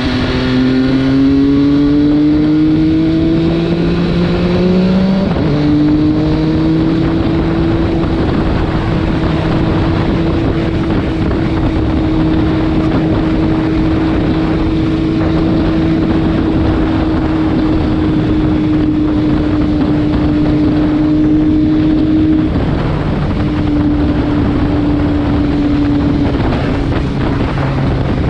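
MV Agusta F3 675's three-cylinder engine pulling under way: the revs climb for about five seconds, drop sharply at an upshift, then hold a steady cruise over a rush of wind. The revs ease off again near the end.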